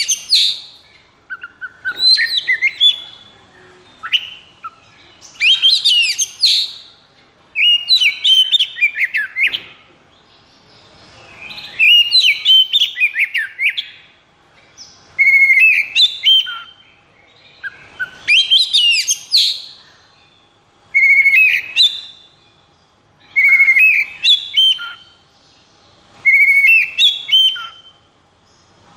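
Oriental magpie-robin (kacer) singing loud, varied phrases of sliding whistles and rapid trills, about ten phrases each separated by a short pause.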